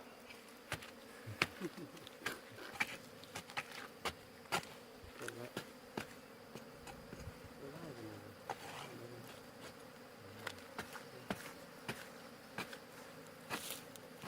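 Ground-nesting bees buzzing faintly, with irregular sharp clicks scattered through it.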